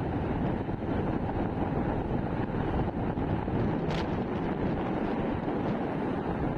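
Wind buffeting the microphone on a moving motorcycle, a steady rumble of wind and road noise, with a brief click about four seconds in.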